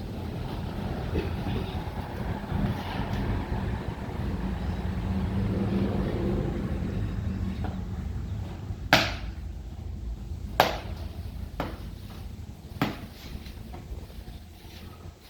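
Diesel tractor engine running steadily with a low hum, broken in the second half by four sharp knocks, the first two the loudest.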